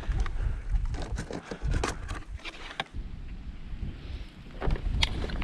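Wind buffeting the microphone as a low rumble, with a few scattered clicks and knocks.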